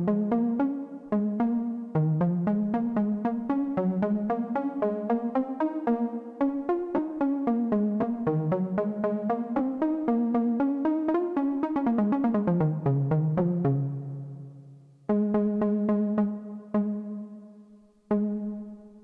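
Behringer Odyssey duophonic analog synthesizer playing a fast, continuous run of notes that climbs and falls in pitch. Near the end come a low fading note and then two held notes, each struck and left to die away.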